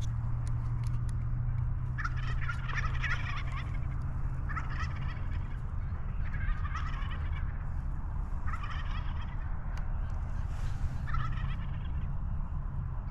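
Wild turkey toms gobbling: five rattling gobbles about two seconds apart, over a steady low rumble.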